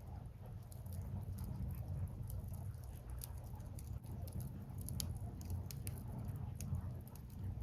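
Burning firewood crackling, with frequent irregular sharp pops and snaps over a steady low rumble.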